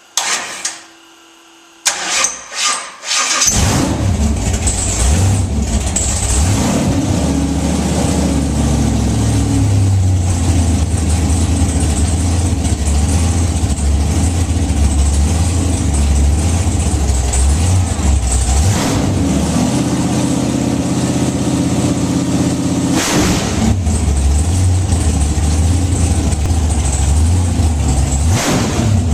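A large engine cranks briefly in a few uneven bursts, catches about three and a half seconds in, then keeps running with a loud, deep note whose pitch rises and falls a little.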